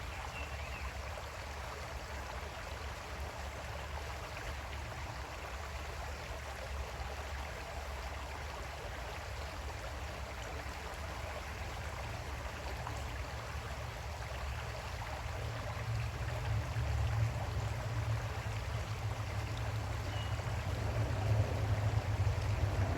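Creek water flowing steadily over stones. A low rumble builds underneath during the second half, and the whole sound grows louder toward the end.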